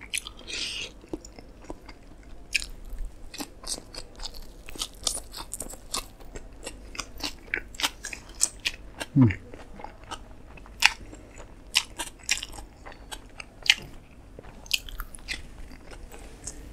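Close-miked mouth sounds of a person chewing a mouthful of beef burger with bun: irregular smacks and clicks of eating. About nine seconds in there is a brief low falling hum.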